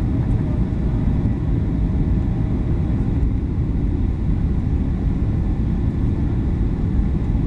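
Steady low rumble of engine and airflow noise inside the cabin of a Boeing 737-800 in flight.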